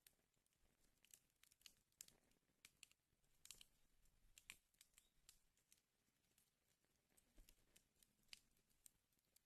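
Wood fire burning in a fireplace, giving faint, irregular crackles and snaps.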